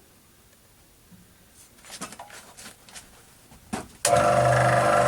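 A few small clicks and knocks of handling, then about four seconds in a scroll saw is switched on and runs at a steady pitch with a loud hum and whine, ready to cut brass plate.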